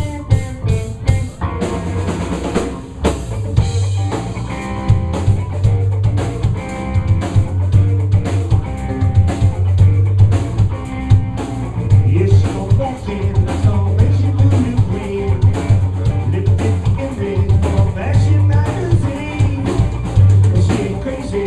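A live band playing an instrumental passage: a drum kit with snare rimshots and bass drum over a repeating bass line.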